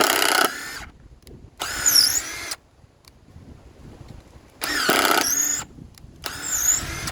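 Bauer 20-volt cordless driver running in four short bursts of about a second each, spinning up and winding down each time, as screws are driven.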